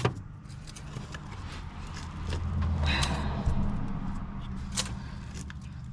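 Scraping and rubbing of hands and tools tugging at an old, stuck rubber heater hose on the heater core, with a low rumble of handling about halfway through and a couple of sharp clicks.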